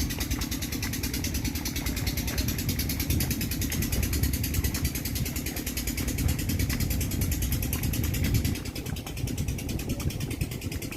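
Tractor engine running steadily, dropping a little in loudness about eight and a half seconds in.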